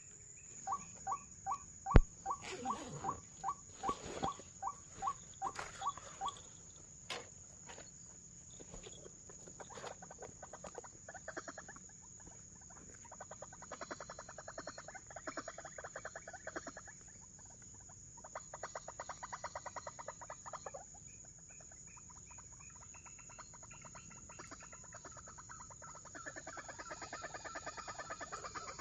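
White-breasted waterhen (ruak-ruak) calling: a run of repeated clucking notes, about three a second, for the first six seconds, with one sharp click about two seconds in. Later, faster runs of rapid notes come and go, from about eleven to twenty-one seconds and again near the end.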